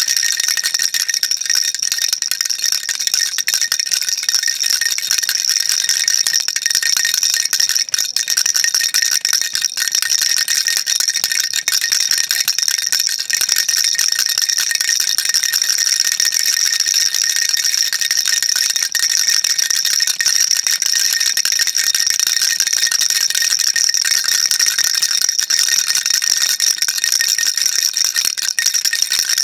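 Baby rattle shaken nonstop: a dense, even stream of small beads clattering inside, high and bright in pitch, with no pauses.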